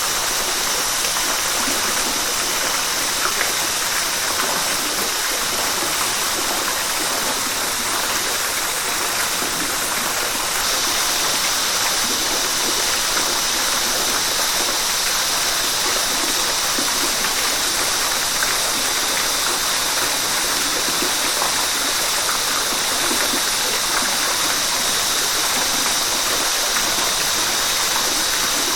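River water flowing in a steady rush, turning slightly brighter and louder about ten seconds in.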